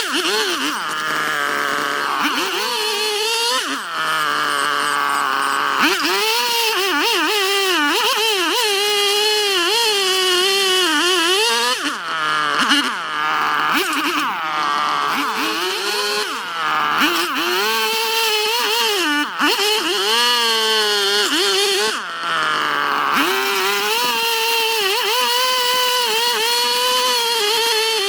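Gasoline chainsaw running under load while carving into a toon-wood log, its engine pitch rising and falling repeatedly as the cut loads and frees it, with brief dips in speed several times.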